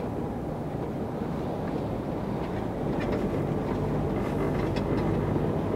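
Truck engine running steadily under the rumble of tyres and road while driving, getting slightly louder about halfway through.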